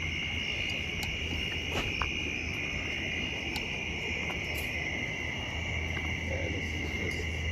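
Steady, unbroken night insect chorus, a high continuous trilling, with a low steady rumble underneath.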